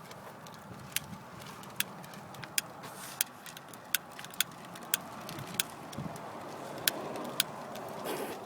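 A pile of smoke balls burning, with a steady rushing hiss that grows slightly louder toward the end and sharp little pops about once every half-second to second.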